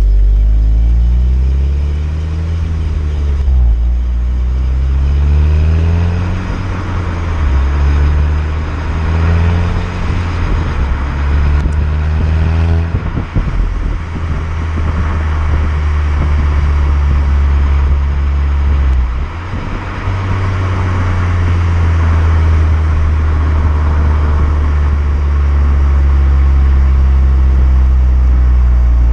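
Stock VW Golf 6 GTI 2.0 TSI turbo four-cylinder pulling hard through the gears. The engine note climbs in pitch and drops back at each of several shifts, then holds a steadier, slowly rising drone near the end.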